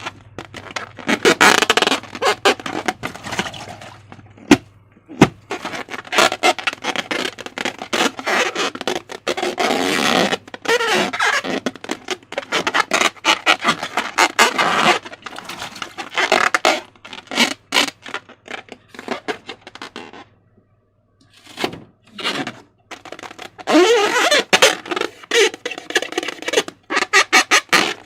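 Slime being squeezed and worked by hand: wet squelching and sticky crackling in irregular spurts, with a brief pause partway through.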